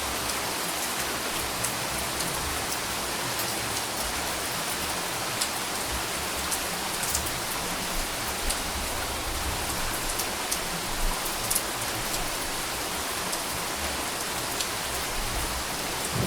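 Steady rainfall: an even hiss of rain with scattered sharp drop ticks.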